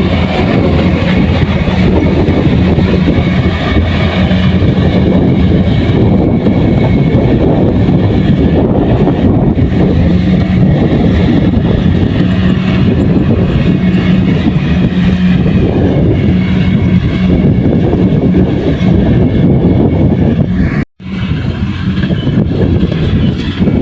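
Kubota rice combine harvester running steadily under load, its diesel engine humming beneath the clatter and rush of the threshing and cutting machinery. Near the end the sound drops out for an instant and comes straight back.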